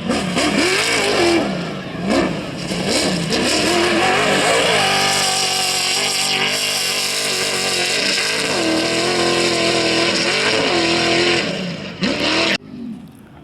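Off-road race vehicle's engine running hard, its pitch repeatedly climbing and falling back as it revs through gear changes, with a stretch of steady high revs in the middle. The sound drops away suddenly near the end.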